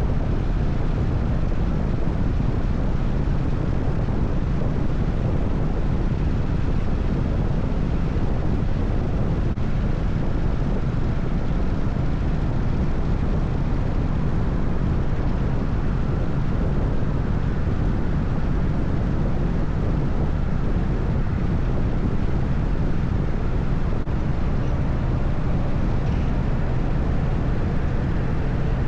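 Harley-Davidson FXSTS Springer Softail's air-cooled Evolution V-twin running steadily at highway cruising speed, its low exhaust note mixed with constant wind noise on the microphone.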